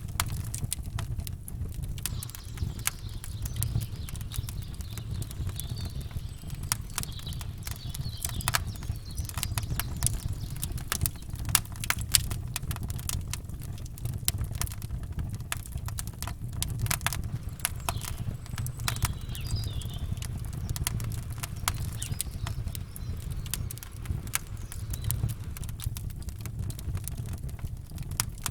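Campfire crackling, with many sharp pops and snaps over a low steady rumble.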